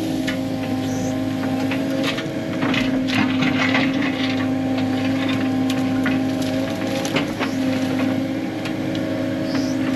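A diesel heavy-equipment engine runs steadily with several held tones, while brush and branches crack and snap repeatedly as they are crushed and torn out.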